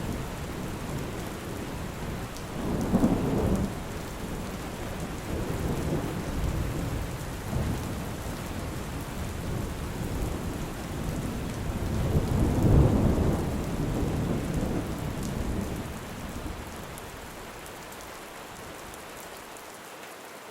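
Steady rain with thunder rolling twice, a shorter peal about three seconds in and a longer one around twelve seconds that rumbles on for a few seconds. The storm fades out near the end.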